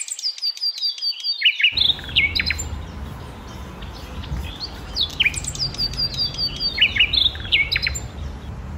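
Small birds chirping: many short, quick chirps that sweep downward in pitch, in clusters. A low steady rumble joins underneath about two seconds in.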